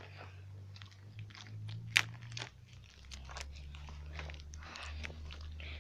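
Irregular crunching and crackling of dry twigs and grass being searched through for a stick, with one sharp snap about two seconds in.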